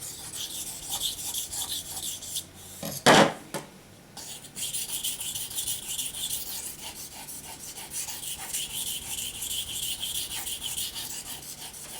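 Knife blade being stroked back and forth on an 800-grit waterstone: a steady run of gritty scraping strokes, putting a V edge on the blade. The strokes pause briefly about three seconds in, where there is one short, louder sound.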